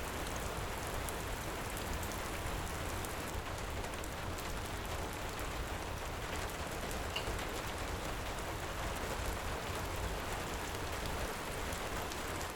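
Heavy rain falling steadily, with a few faint, sharp crackles scattered through it.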